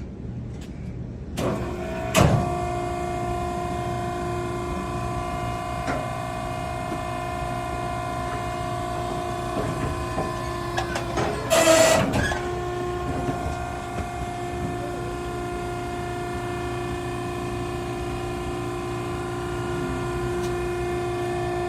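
Maren cardboard baler's hydraulic power unit starting up about two seconds in and running with a steady whine through a press cycle, with one brief loud noisy burst near the middle.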